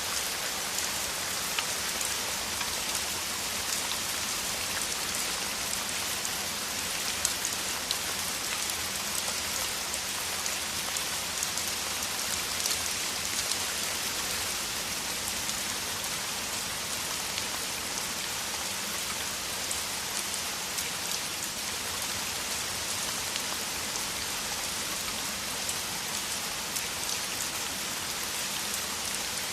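Heavy downpour of rain falling steadily, a dense even hiss peppered with the ticks of individual drops.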